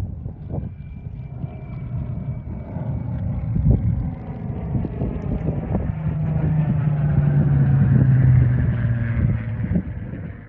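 P-51 Mustang's Packard Merlin V-12 engine in a flyby, growing louder and then dropping in pitch as it passes. Wind buffets the microphone throughout.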